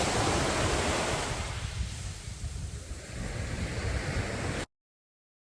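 Sea waves breaking and washing up a beach: one wash swells at the start and ebbs, and another builds about three seconds in, with wind buffeting the microphone. Near the end the sound cuts out abruptly into dead silence for about a second.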